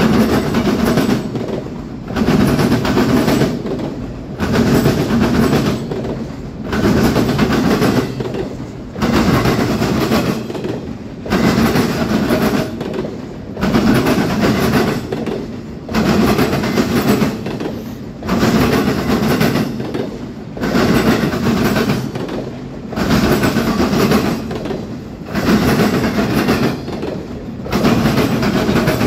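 Freight train cars rolling past at close range, the wheel and rail noise swelling and dipping about every two seconds as each car goes by.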